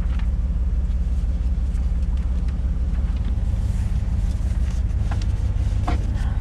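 A vehicle engine running with a steady low rumble, plus a few faint short clicks near the end.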